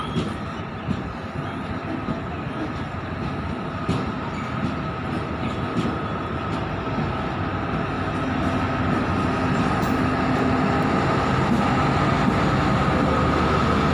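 Diesel electric multiple unit (DEMU) train rolling past a platform: steady wheel-on-rail noise with occasional clicks over rail joints and a faint steady whine. The sound grows louder over the last few seconds as the diesel power car comes by.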